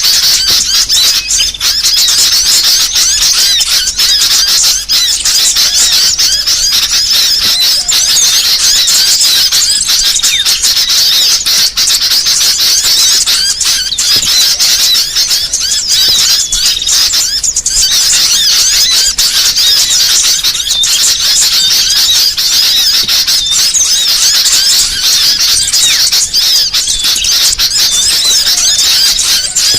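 Many small songbirds chirping and twittering in a dense, unbroken, high-pitched chorus: a mixed small-bird recording used for tutoring songbirds and as a lure call.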